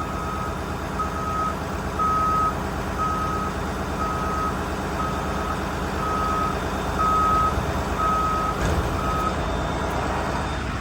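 A truck's warning alarm beeps about once a second over the steady running of its 6.7 Cummins diesel while the hydraulic dump body is lowered. The beeping stops about nine seconds in, just after a short knock.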